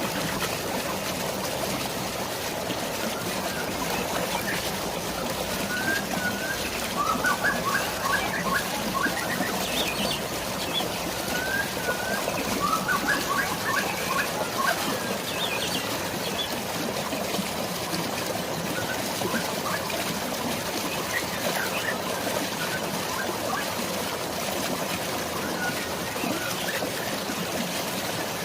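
Steady rush of falling water, rain and waterfall, with songbirds chirping over it, including quick runs of chirps several seconds in and again near the middle.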